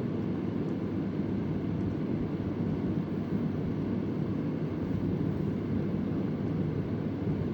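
Vintage Convair oscillating electric fan running, a steady low whooshing of blade wash and motor hum with no change in level. A faint tick sounds once, less than a second in.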